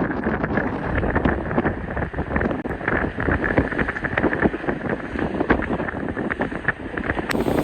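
Strong onshore wind buffeting the microphone in constant, irregular gusts.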